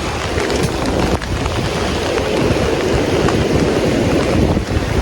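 Strong storm wind blowing hard across the phone's microphone: a loud, continuous, buffeting rush that is heaviest in the low range.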